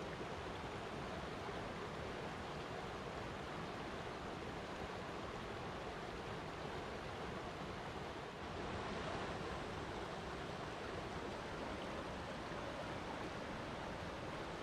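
Flowing water rushing steadily, with a brief dip in level a little past halfway.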